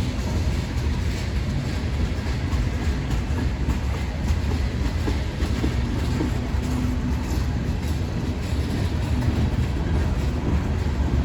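Mixed freight train's cars rolling past, a steady low-pitched noise of wheels on rail with faint irregular clicks.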